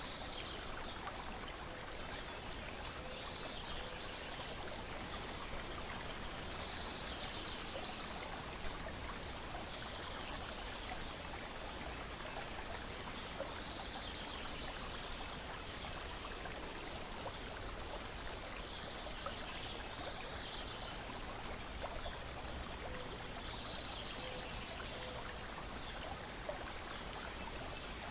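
Steady lapping and trickling water, with short high bird calls every few seconds and a few faint crackles from a wood fire.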